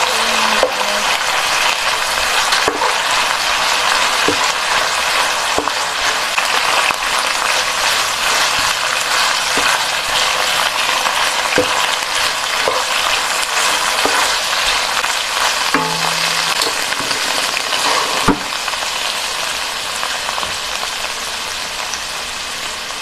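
Beef and onions sizzling steadily as they stir-fry in a nonstick wok, with the spatula knocking and scraping against the pan every few seconds. The sizzle eases a little near the end.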